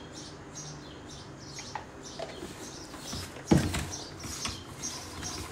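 Small birds chirping over and over, with a hand rustling and tossing okra pieces coated in gram flour in a plastic bowl. A single sharp knock about three and a half seconds in is the loudest sound.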